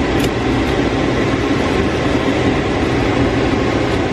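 Vacuum cleaner running steadily, a loud, even motor-and-airflow noise.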